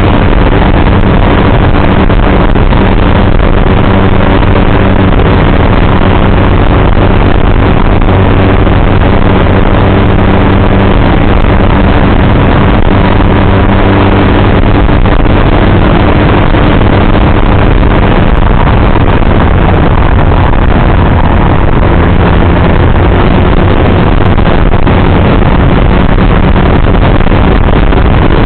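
Motorcycle engine running steadily at cruising speed, with a constant rush of wind and road noise; the engine note shifts slightly a couple of times.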